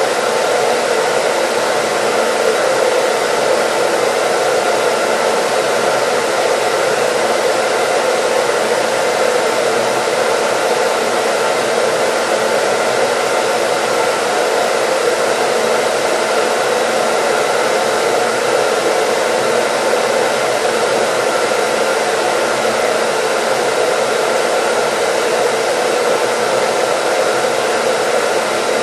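Hair dryer running steadily: an even, unbroken blowing whoosh with a faint steady hum, played as white noise.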